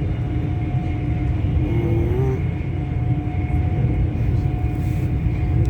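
Steady low rumble of a passenger train running at speed, heard from inside the carriage, with a steady hum over it.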